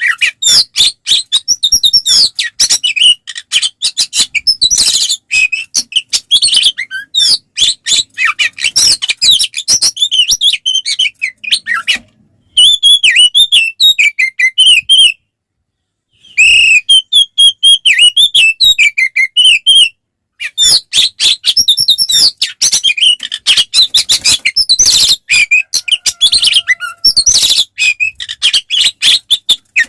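Oriental magpie-robin in loud, full-throated fighting-mode song: a fast, unbroken stream of chirps, whistles and harsh notes, stopping twice for a moment near the middle.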